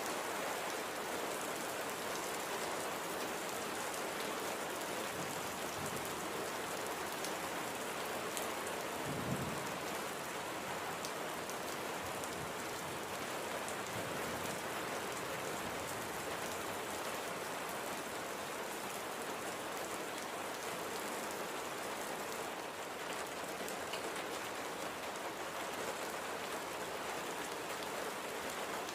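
Steady light rain falling, with fine scattered ticks of individual drops. A single brief low thump about nine seconds in.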